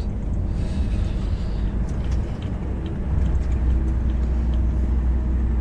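Truck cab at highway speed: a steady low engine drone with road and tyre noise, the drone growing heavier about three seconds in.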